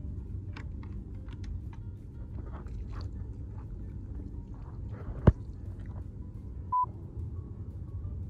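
Scattered light clicks and taps of small parts and tools being handled, over a steady low hum, with one sharp click about five seconds in and a short beep near seven seconds.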